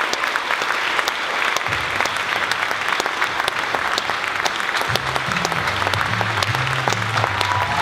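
Audience applauding steadily, with low bass notes of music coming in under the clapping about two seconds in and a moving bass line from about five seconds.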